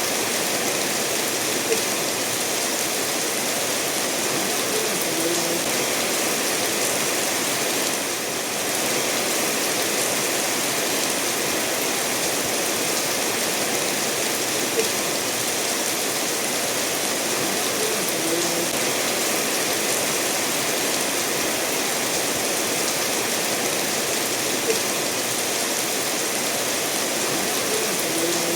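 Steady rain falling together with a stream of water running over stones, an even rushing hiss, with a few single sharp drop-like ticks now and then.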